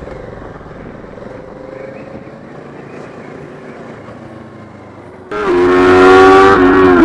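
Motorcycle engine and road noise at moderate volume. About five seconds in, it cuts abruptly to a much louder engine held at a steady high pitch, which dips briefly near the end.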